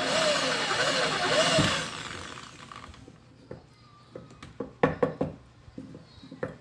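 Mini drill press motor running with a 1.6 mm bit, its pitch dipping and recovering as the bit bites into the work, then switched off about two seconds in and spinning down. A few sharp clicks and knocks follow near the end.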